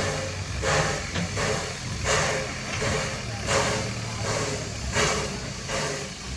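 Steam locomotive working slowly, its exhaust chuffing in regular hissing puffs about one every second and a half, over a steady low rumble.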